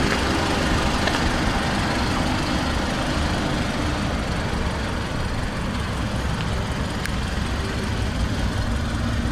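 Mazda 6's 2.5-litre inline-four car running steadily, a constant even engine and road noise with no change in pitch.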